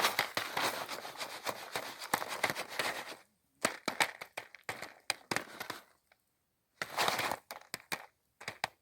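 Jiffy Pop popcorn popping in its foil pan over a campfire: a dense crackle with many sharp pops and some rustling, broken twice by short silent gaps.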